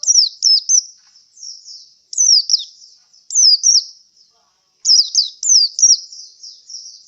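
Male white-eye (pleci) calling: short, high, downward-sweeping chirps in quick clusters of two or three, with brief pauses between clusters. The owner presents this as a bird tired out after a singing contest.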